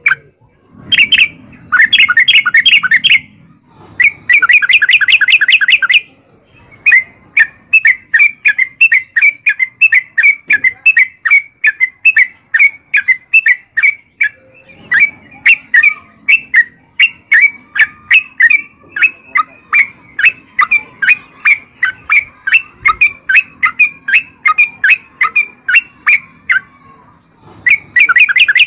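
Yellow-vented bulbul (trucukan) singing a long rolling song: two dense bursts of rapid chattering notes, then a long run of quick repeated notes lasting about twenty seconds, and another dense burst near the end.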